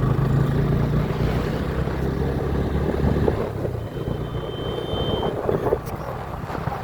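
Motorcycle engine running with a steady low hum that weakens after about three seconds.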